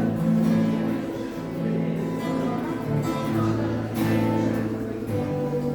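Music with a strummed guitar, the chords changing about once a second.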